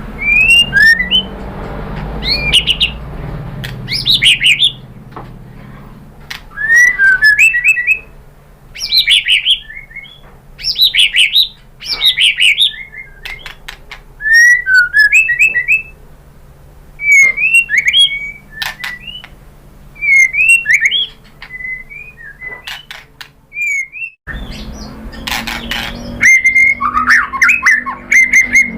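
White-rumped shama singing: loud phrases of whistled, swooping notes and quick chattering runs, a new phrase every second or two. About 24 seconds in, the background hum cuts out abruptly and the song carries on with steadier, level whistles.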